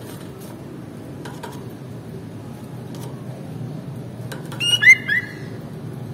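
Sooty-headed bulbul (kutilang) giving one short burst of bright, clear whistled notes about four and a half seconds in, over a steady low background rumble.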